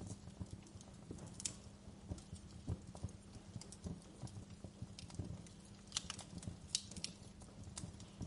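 Wood fire crackling: irregular small snaps and pops over a steady low rumble, with a few sharper pops about a second and a half in and a cluster of them past the middle.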